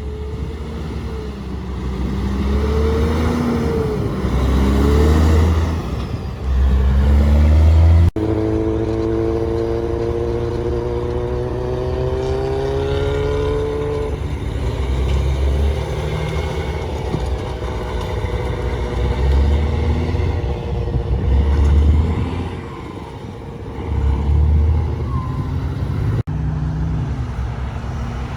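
Big-rig diesel engines running and revving, their pitch rising and falling, with deep pulsing rumbles that come and go.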